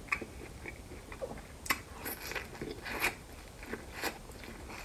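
Biting and chewing boiled corn on the cob coated in seafood-boil sauce, close to the microphone: a handful of sharp, wet crunches as kernels are bitten off, with mouth clicks in between.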